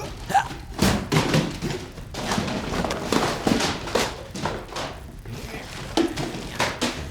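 A busy run of thumps and knocks, several a second, with a voice's short sounds among them.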